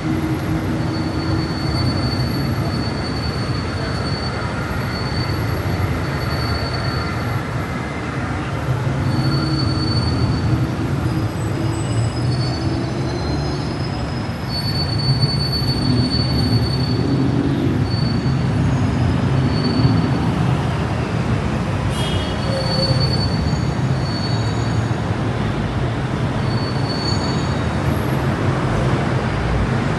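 Rail train running past with squealing wheels: steady rumble with thin high squeals that come and go, over continuous street traffic noise.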